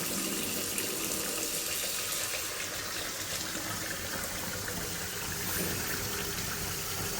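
Kitchen faucet running steadily into a double sink, water pooling on the garbage-disposal side, which backs up because the disposal is clogged while the other side drains.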